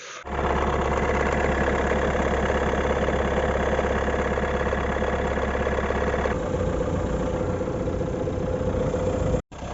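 Renault 1.5 dCi K9K turbodiesel idling with an extra noise from under the bonnet, which comes from a failing crankshaft damper pulley when the engine is cold. About six seconds in the sound changes abruptly, and it cuts out briefly near the end.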